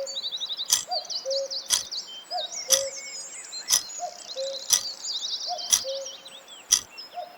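Several songbirds chirping and trilling, over an even tick with a short low blip about once a second: a quiz countdown timer.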